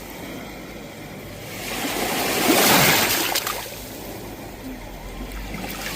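Sea waves breaking and washing on the shore: one wave swells up about two seconds in, crests and fades out, and the next begins to build near the end.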